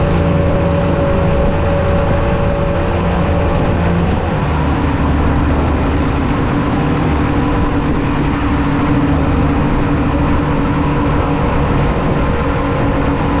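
Boat engines running steadily under way, with a change in engine note about four seconds in. A brief high hiss at the very start.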